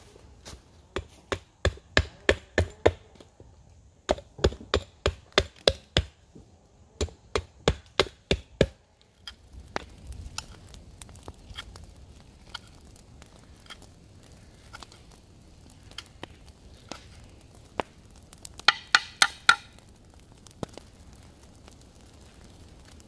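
Knife chopping on a cutting board in quick runs of sharp strokes, about four a second, three runs in the first nine seconds, with another short burst of knocks near the end.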